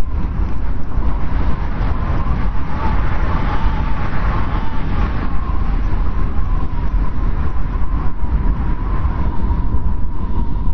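Strong wind blowing with a deep rumble and a thin steady whistle, swelling brighter a few seconds in.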